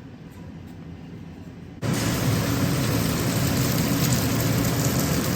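Electric kitchen mixer running. It switches on abruptly about two seconds in and runs steadily with a loud, even whir.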